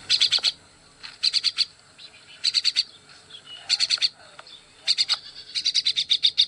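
Myna calling: short bursts of rapid, high-pitched chattering notes, about five to a burst, repeated roughly once a second, with a longer run near the end.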